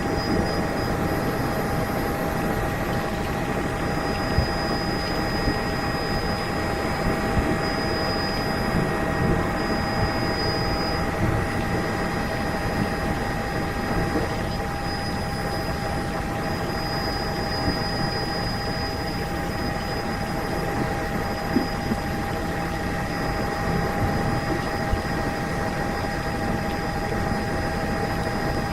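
Helicopter in flight: steady rotor and engine noise with constant whining tones running through it.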